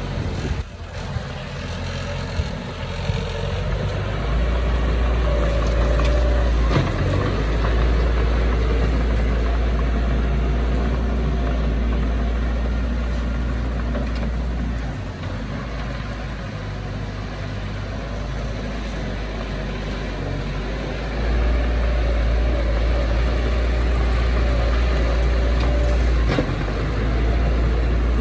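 Heavy diesel earthmoving machinery running, a deep engine rumble that grows louder and eases off by turns as the machine works.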